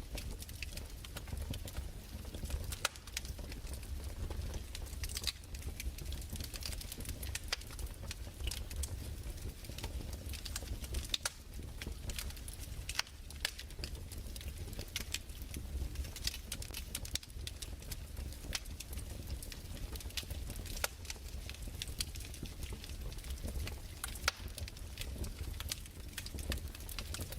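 Wood fire crackling steadily, with irregular sharp pops and snaps over a low rumble.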